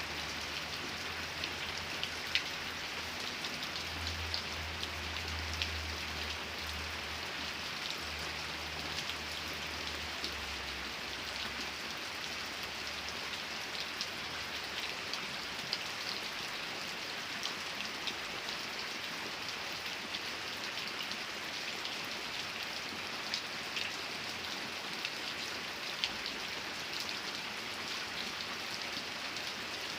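Steady rain falling, with scattered louder drops ticking through the hiss. A low hum underneath fades away about a third of the way in.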